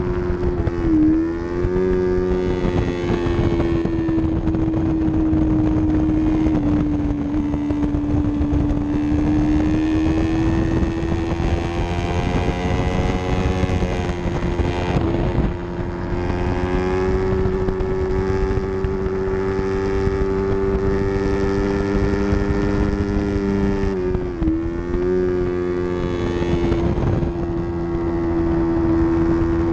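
Yamaha R3's 321 cc parallel-twin engine running at high revs under racing load, with wind rushing over the bike. The pitch holds mostly steady and dips briefly twice, about a second in and again about 24 seconds in.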